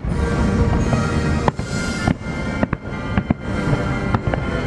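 Aerial fireworks shells bursting in a display, several sharp bangs a second or so apart, some in quick pairs, over music playing throughout.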